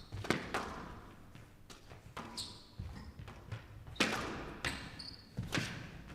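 Squash rally: the ball is struck hard by rackets and smacks off the court walls about every second and a half, each hit ringing in the hall, with smaller knocks between and short squeaks of shoes on the court floor.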